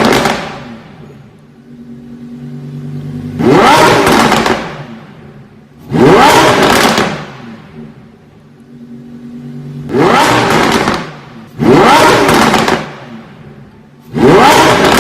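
Lamborghini Huracan EVO's 5.2-litre V10, fitted with an iPE Valvetronic exhaust, revved in sharp, loud blips about five times, each rising quickly in pitch and then falling back to a steady idle between blips.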